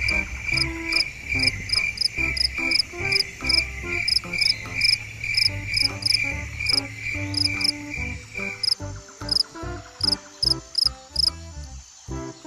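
Insect chirping, cricket-like: short, high chirps repeating about two to three times a second, stopping about two-thirds of the way through, over a low rhythmic beat.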